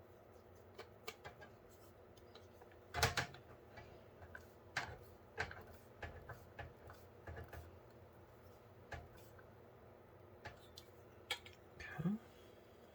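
Small metal screws and parts clinking and clicking as they are handled, a scattering of light taps with one louder clatter about three seconds in.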